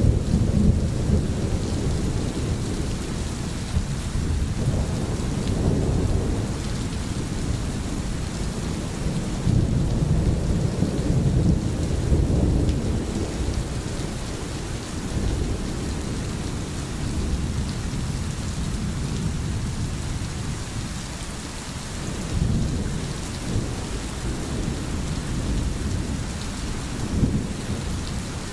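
Steady rain with a continuous hiss, under a low rumble that swells and fades several times.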